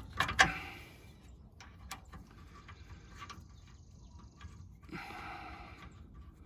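Two sharp metallic clicks in the first half second as shock-absorber mounting hardware is fitted, then faint scattered clinks and handling noise.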